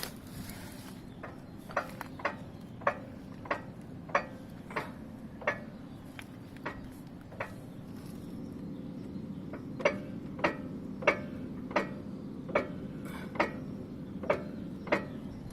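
A knock from a wheel, repeating about once or twice a second at the pace of the wheel turning, over a steady low hum; it is the fault being asked about.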